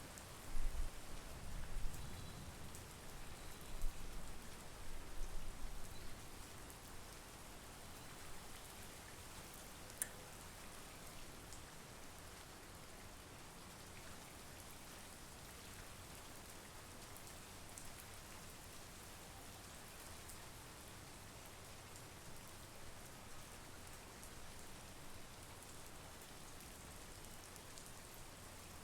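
Steady monsoon rain falling, with irregular low rumbling through the first six seconds and a single sharp tap about ten seconds in.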